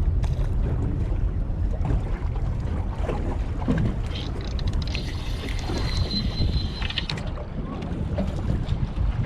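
Wind buffeting the microphone over the sea at the shore, a steady low rumble with a few light clicks. A faint high thin tone sounds for about two seconds around the middle.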